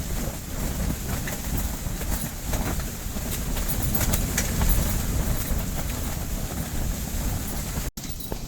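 Strong wind gusts buffeting a portable ice-fishing hut: a steady low rumble of wind with scattered sharp snaps and rattles from the hut's walls. The sound breaks off for an instant near the end.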